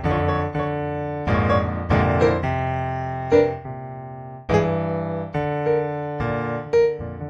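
Background piano music: chords and melody notes struck and left to ring, with a slower sustained chord around the middle.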